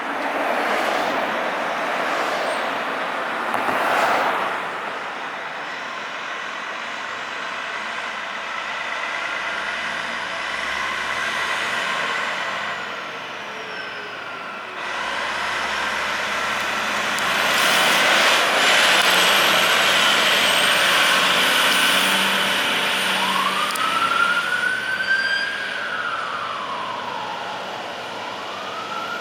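A fire engine drives by on an emergency response with its siren going. The truck is loudest a little past halfway, and slow rising-and-falling siren wails come near the end.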